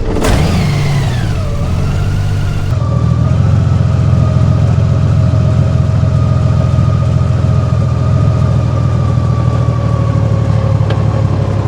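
Honda Gold Wing GL1800 flat-six engine running, with a whine that falls in pitch over the first second or two and then holds steady. This is the abnormal engine noise that the owner says has been getting steadily worse.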